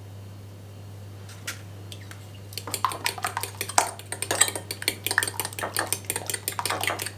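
Cutlery clinking against dishes: a single clink, then from about two and a half seconds in a fast, irregular run of clinks, over a low steady hum.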